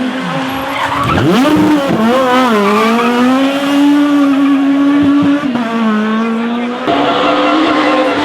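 Rally car engine running at high revs. Its pitch drops sharply about a second in as it comes off the throttle and changes down, then climbs and holds before dipping again. The sound changes abruptly near the end.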